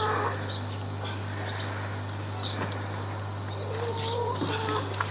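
Small birds chirping with many short, high calls, and a couple of lower wavering bird calls about four seconds in, over a steady low hum.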